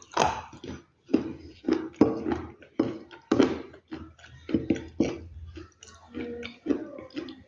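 Close-miked crunchy chewing and biting: a quick, uneven run of sharp crunches, two or three a second, each breaking up gritty.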